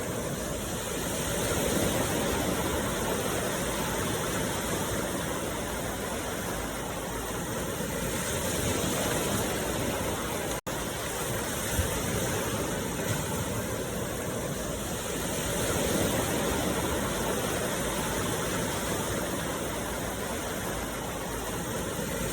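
Steady rushing noise from a meditation sound track, like running water, swelling and easing slowly about every seven seconds. It cuts out for an instant about ten seconds in.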